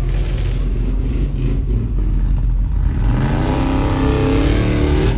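A vehicle engine running loudly, its pitch climbing steadily from about three seconds in as it accelerates.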